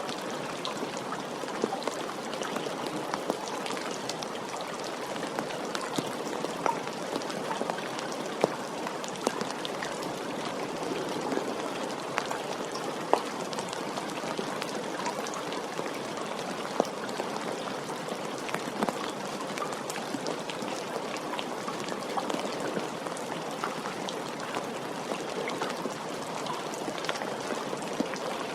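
Steady rain, a dense even hiss of falling water with many individual drops ticking close by and an occasional louder drop standing out.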